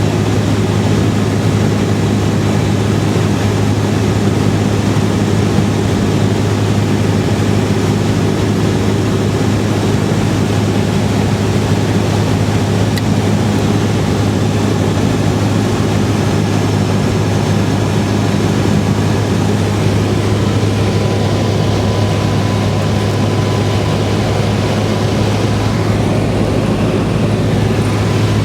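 Cessna 172R's four-cylinder Lycoming engine and propeller droning steadily at constant power, heard from inside the cabin.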